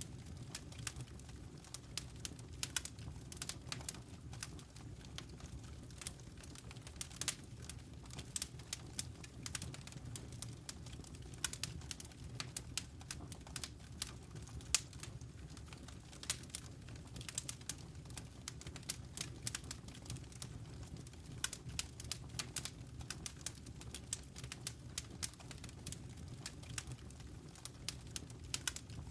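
Wood fire crackling in a fireplace: a quick, irregular patter of sharp pops and snaps over a low, steady rumble of burning flames.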